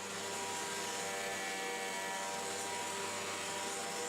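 Hoover WindTunnel T-Series Rewind upright vacuum cleaner running steadily: a constant motor whine over the rush of air.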